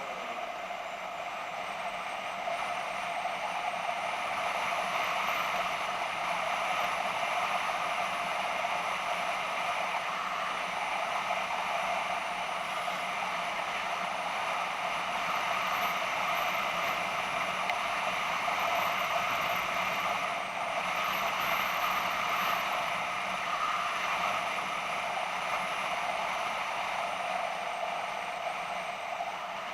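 BMW F650GS motorcycle under way: steady engine, wind and road noise heard through a bike-mounted action camera, with a thin high whine that wavers up and down.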